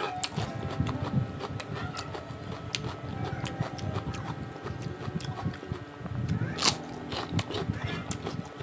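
A man chewing food with many small wet mouth clicks, and one sharper click about two-thirds of the way through.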